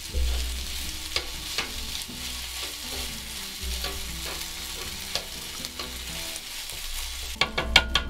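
Rice and dak-galbi with freshly added sauce sizzling on an electric griddle while being stirred and chopped with tongs and a wooden spoon. The utensils scrape and click against the griddle plate, with a quick run of sharper clicks near the end.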